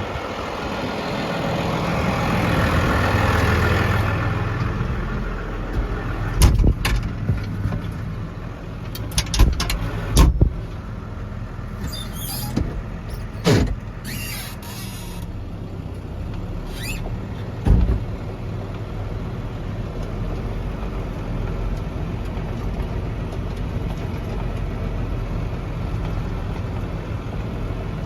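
Farm tractor engine running steadily, swelling louder in the first few seconds as it works, while it moves a wrapped hay bale. Several sharp metal knocks and clanks come between about six and eighteen seconds in.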